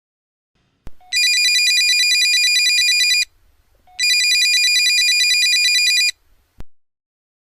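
Telephone ringing twice, each ring a fast-trilling high tone lasting about two seconds, with a short pause between the rings. A faint click comes just before the first ring and another just after the second.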